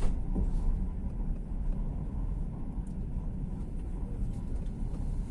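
Steady low rumble of a passenger train running, heard from inside the carriage, with a sharp click right at the start.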